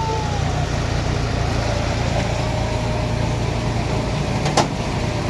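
Municipal truck's engine running steadily with a low rumble, and a single sharp click about four and a half seconds in.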